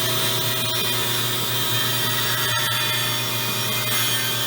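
Hand-held power buffer running steadily with a high whine as it scrubs the bead seat area of a steel wheel rim clean.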